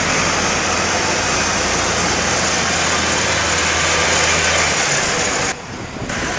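Tractor engines running, a steady low drone under a broad rushing noise. The sound drops away briefly near the end.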